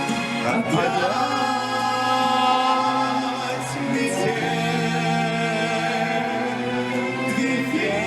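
Orchestral ballad with long held sung notes over the orchestra accompaniment.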